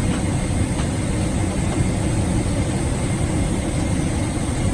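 Steady low drone of an airliner cabin in flight: jet engine and airflow noise heard from inside the cabin.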